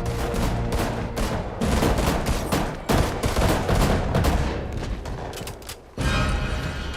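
Rapid gunfire from a film soundtrack, many shots in quick succession over music. It thins out and drops to a brief lull just before six seconds in, then the music comes back in.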